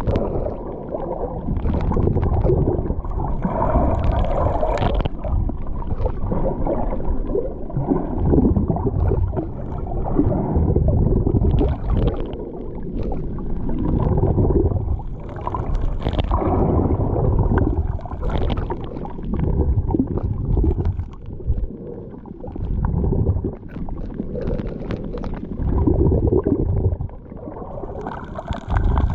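Sea water sloshing and gurgling close to the microphone in uneven swells, with a low rumble.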